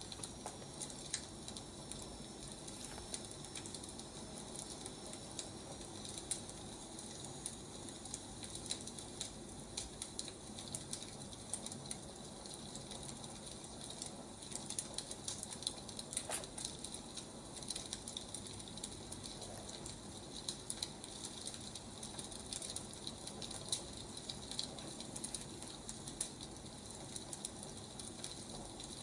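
Wood fire crackling: a steady low hiss with frequent irregular snaps and pops of burning firewood.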